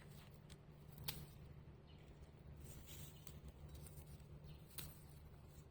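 Near silence: a low steady hum with a few faint sharp clicks, one about a second in and one near the end.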